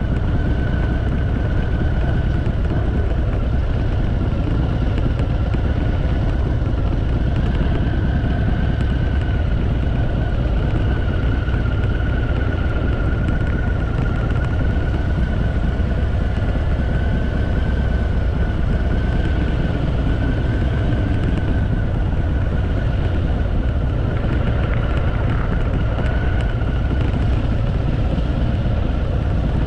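Harley-Davidson V-twin motorcycle riding at a steady pace, a constant low engine rumble mixed with wind rushing past the microphone.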